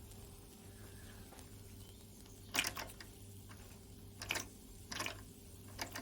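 Mamod SE1 toy steam engine building pressure but not yet running: four short, irregular puffs of hiss over a faint steady hum. The engine is still short of enough steam pressure to run, with a leak that the owner blames on old O-rings.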